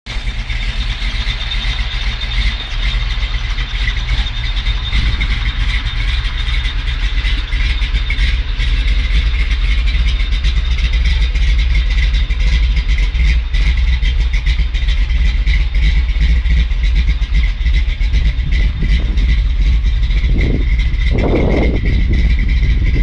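Chevy 383 stroker small-block V8 with a thumper cam, running with a steady low rumble, then revved in two quick blips near the end.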